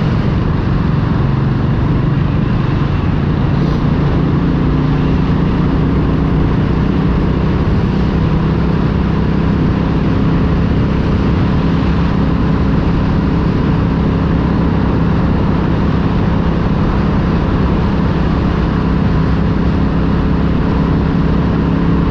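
Motorcycle engine running at a steady cruise, with dense wind and road noise on the microphone.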